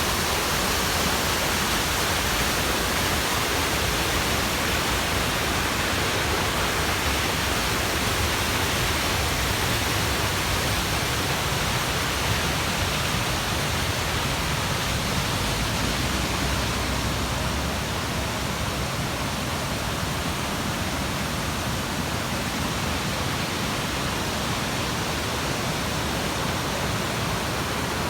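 Waterfall on a mountain stream rushing steadily, an even hiss of falling water; its low rumble drops a little about two-thirds of the way through.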